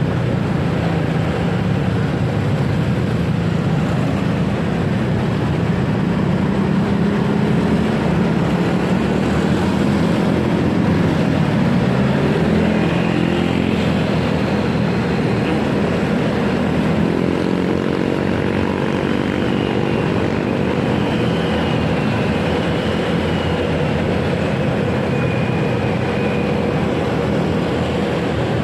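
Motorcycle engine running while riding in traffic, with heavy wind rush on the microphone; about two-thirds of the way in the engine note climbs as the bike speeds up.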